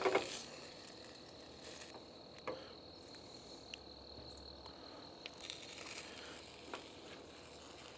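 Insects, likely crickets, trilling steadily on one high note, with a few faint knocks and clicks scattered through. The loudest knock comes right at the start.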